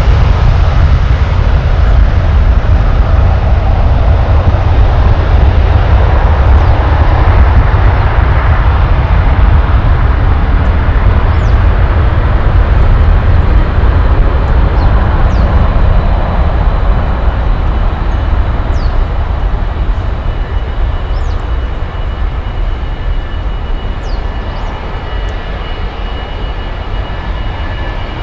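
Jet airliner noise, loud with a heavy low rumble, dying away gradually over the second half. A steady high engine whine comes through near the end.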